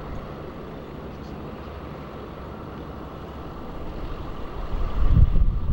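A vehicle engine running steadily, joined near the end by a loud low rumble that builds up.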